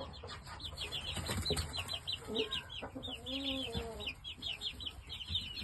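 Young Shamo chicks peeping, short high calls several times a second without a break. About midway a lower, longer call from an older chicken comes in.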